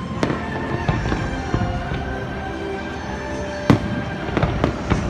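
Aerial fireworks bursting in a run of sharp bangs and crackles, the loudest bang about three and a half seconds in and a quick cluster near the end, with music playing underneath.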